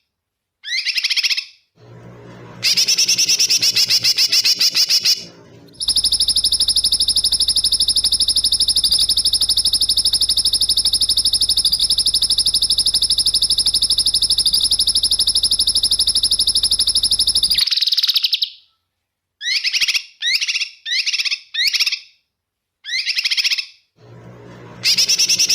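Songbird song made of harsh, rapid burst phrases. Short repeated calls come first. About six seconds in, a long, fast, high buzzing trill holds for about twelve seconds, then short calls return, and a rapid series starts near the end.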